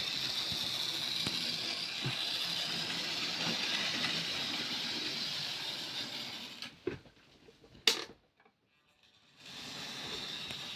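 Model train locomotive running on the track: a steady whirr and rattle of its small electric motor and wheels. About seven seconds in it dies away with a couple of clicks and one sharp click, falls almost silent briefly, then the running sound resumes near the end.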